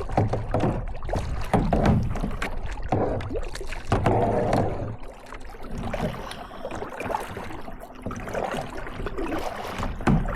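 Kayak paddling on lake water: repeated paddle strokes with splashes and drips, and a low wind rumble on the microphone.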